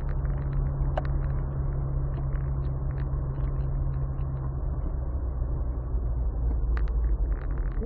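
Car engine and road rumble heard from inside the cabin, steady and low, with a few light clicks. The low engine hum drops away a little over halfway through.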